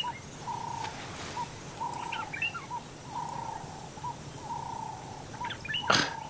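Birds calling: a repeated call of short and longer notes at one pitch, with clusters of quick, higher chirps, over a steady background. A sharp knock near the end.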